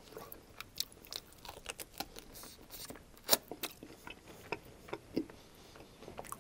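Close-miked chewing of a crispy onion-coated barbecue rib, with scattered sharp crunchy clicks and crackles, the loudest about three seconds in.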